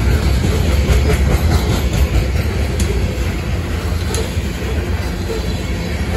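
Loaded open-top coal cars of a CSX freight train rolling past: a steady, heavy rumble of steel wheels on rail, with a couple of sharp clicks near the middle.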